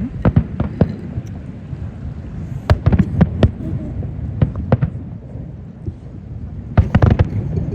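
Aerial fireworks bursting in four quick clusters of sharp bangs over a continuous low rumble of booms and echoes.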